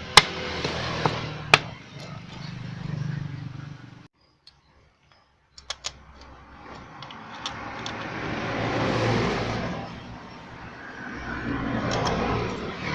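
Small motorcycle engine running, with a few sharp clicks, a brief cut-out about four seconds in, and later two rising-and-falling swells of engine and road noise.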